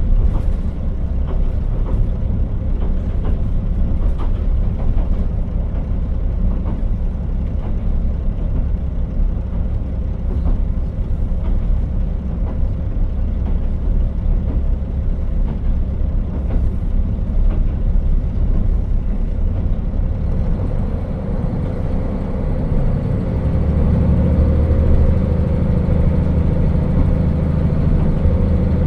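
KiHa 40 diesel railcar running along the line: a steady low rumble with wheels clicking over rail joints. About twenty seconds in, the engine takes power and a rising whine joins as the railcar picks up speed.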